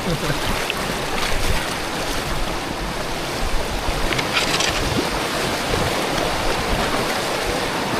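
Steady rush of a river's current, with wind on the microphone and a brief splash about four seconds in.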